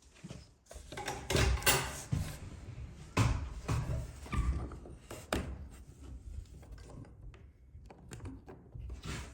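A series of irregular knocks, thuds and rustles, loudest in the first five seconds and settling lower after that.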